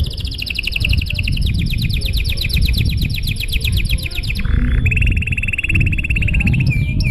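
Domestic canary singing long, rapid trills of evenly repeated notes, dropping to a lower-pitched trill about two-thirds of the way through and ending with a few down-slurred notes. A steady low rumble runs underneath.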